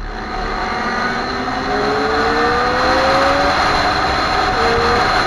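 Motorcycle engines revving and accelerating, with several pitches rising one after another over a dense wash of engine and exhaust noise.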